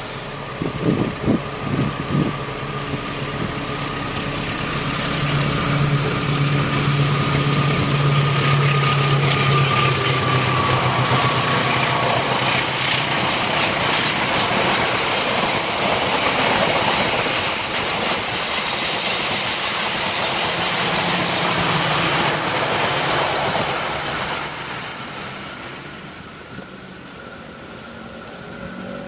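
A diesel-hauled passenger train passing close by: the locomotive's engine is heard as a steady low tone early on, then the carriages' wheels rumble along the rails. The sound fades away over the last few seconds.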